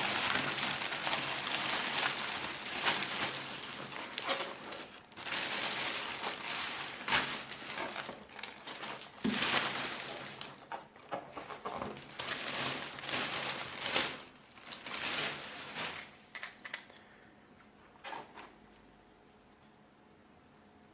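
Packaging being handled and unwrapped, with dense crinkling and rustling and scattered sharp clicks. It dies down about 16 seconds in to a few faint taps.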